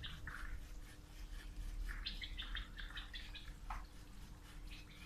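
Faint bird chirps: a quick run of short, high notes about two seconds in, over quiet outdoor background noise.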